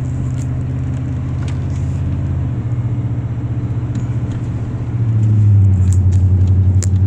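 Car engine and road rumble heard inside the cabin while driving: a low, steady drone that grows louder about five seconds in.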